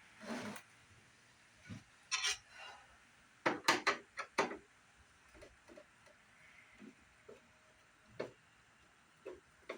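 Knocks and clatter of a CRT monitor's plastic case being handled on a desk. A cluster of sharp knocks comes about three and a half to four and a half seconds in, with a few lighter taps after.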